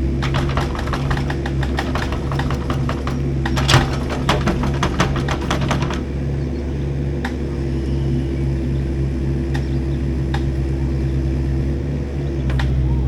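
Heavy engine running steadily, with rapid clicking and rattling of metal over it for the first half, thinning to a few single clicks later.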